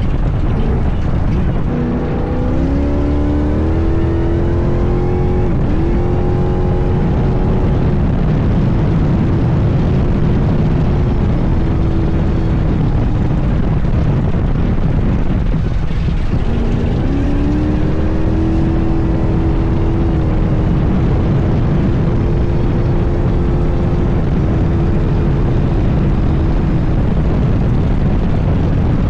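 All-wheel-drive Class 1 off-road race car's engine pulling hard, its pitch climbing, with a quick shift about six seconds in; it backs off around the middle and then pulls again and holds, over a loud steady rumble of wind and terrain noise.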